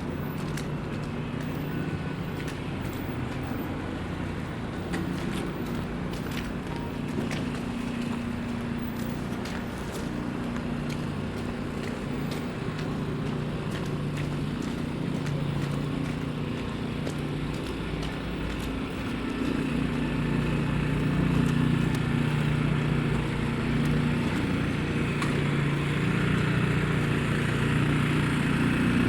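City street traffic: motor vehicle engines running with a steady low hum, growing louder about two-thirds of the way through.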